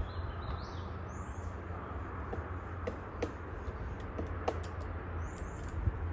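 Woodpecker tapping on wood in a few irregular sharp knocks through the middle. Short, high, arched bird calls come twice near the start and once near the end, over a steady low rumble.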